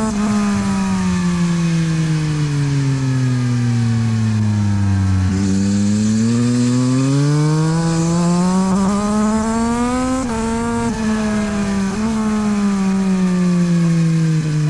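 The three-cylinder engine of a 2022 Yamaha MT-09 SP, running through a LeoVince aftermarket exhaust on track. The revs drop over the first five seconds, climb again with a couple of brief breaks like gear changes, then drop off once more near the end.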